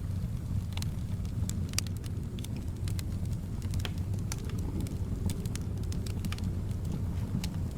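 Wood fire crackling in a fireplace: sharp, irregular pops a few times a second over a steady low rumble of soft wind.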